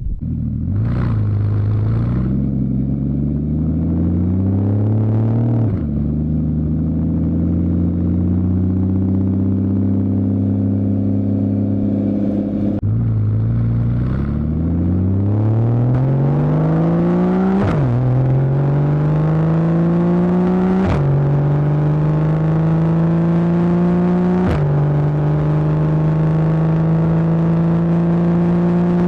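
Porsche Boxster 2.7-litre flat-six through a Fabspeed Maxflo exhaust under acceleration, its note climbing and falling back at each PDK upshift. After a steady stretch it eases off about halfway, then pulls hard again through three quick upshifts, each with a short crack from the exhaust, and settles into a steady run near the end.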